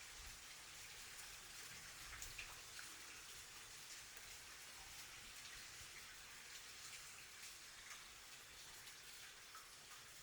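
Rain falling steadily and softly: an even hiss with a few individual drops ticking.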